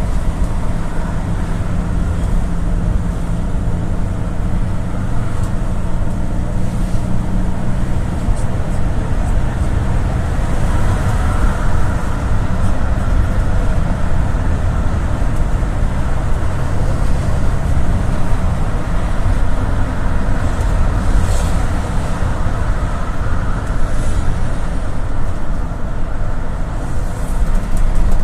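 A GAZ-A68R52 City minibus driving, heard from on board: a steady low engine drone mixed with road and tyre noise, and a few faint rattles.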